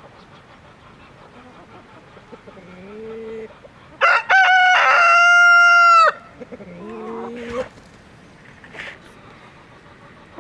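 A rooster crows once, a loud call of about two seconds that cuts off sharply. Quieter, lower chicken calls come just before and after it.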